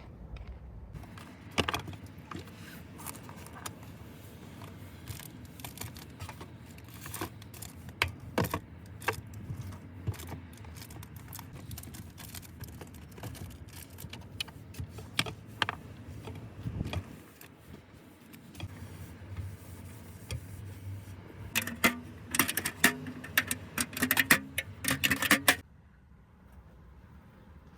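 Light metallic clinks and clatter of small hard objects being handled, scattered at first, then a rapid flurry of clinks near the end that cuts off suddenly.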